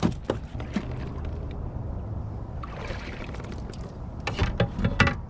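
A run of sharp knocks and rattles on a kayak, loudest in a quick cluster of hits near the end, as a just-caught clown knifefish is landed and handled.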